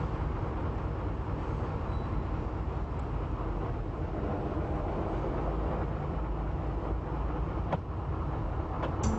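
Corsican Railways beach train running along the track: a steady low rumble, with a single sharp click near the end.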